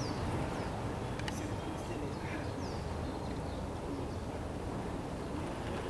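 Steady low outdoor background noise with short, high, falling bird chirps now and then, and a single sharp click just over a second in.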